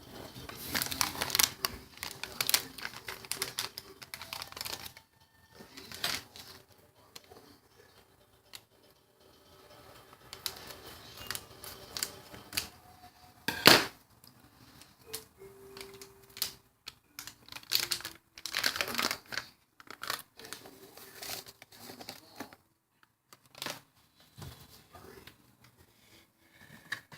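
Packet crinkling and rustling with scattered clicks and knocks of kitchen handling, and one loud knock about fourteen seconds in.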